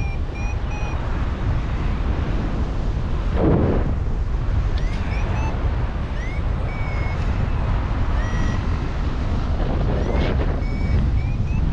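Strong wind buffeting the microphone in flight, with a louder gust about three and a half seconds in. Over it a paragliding variometer beeps in short chirps whose pitch shifts up and down, its climb tone signalling rising air; it goes quiet for a couple of seconds early on, then resumes.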